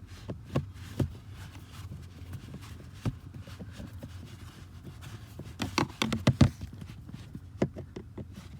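Hand tool clicking and knocking against metal and plastic as a Torx screw is driven in: scattered single knocks, then a quick flurry of louder knocks about six seconds in.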